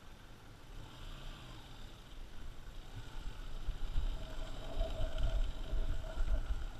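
Off-road motorcycle engine running during a ride, with wind buffeting the microphone. It grows louder about three seconds in.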